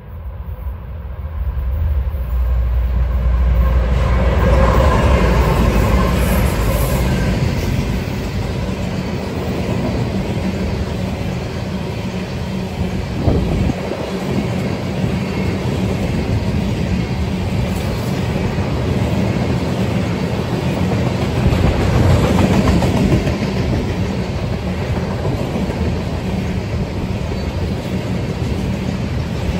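A CSX freight train passing close by. The locomotives' diesel rumble builds over the first few seconds, then a long string of steel-loaded flatcars rolls past with steady clattering wheels on the rails.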